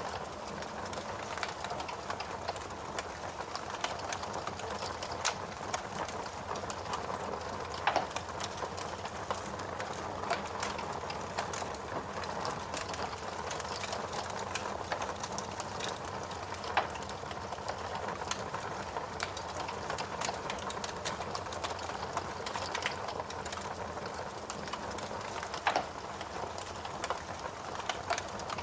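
Wood fire crackling in a fireplace: a steady hiss full of small pops, with a few louder snaps, one about eight seconds in and another near the end.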